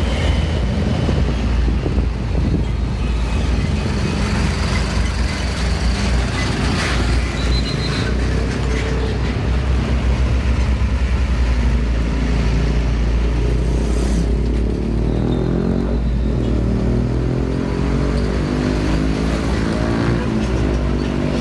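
Heavy road traffic with trucks' diesel engines running past. In the second half one engine's pitch rises and falls as it pulls through the gears.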